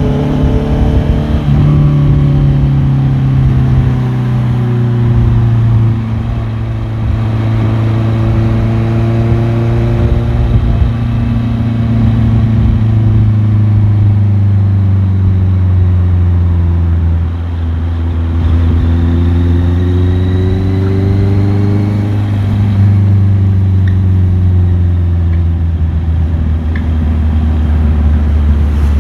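Motorcycle engine running under way, its pitch sliding slowly down over many seconds, rising briefly again about two-thirds of the way through, then easing off once more.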